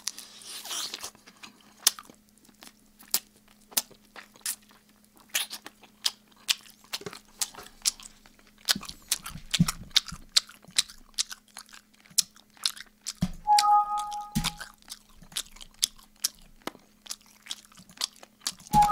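Close-miked chewing and lip-smacking of oven-baked chicken drumstick, a dense run of sharp wet mouth clicks, made on purpose as part of the mukbang. A short two-note electronic beep sounds about two-thirds of the way in and again at the end, over a faint steady hum.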